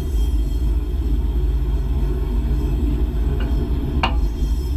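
Iron ore freight train rolling along the track, heard from on top of an open ore wagon: a steady, loud, low rumble, with two short sharp sounds near the end, the second louder.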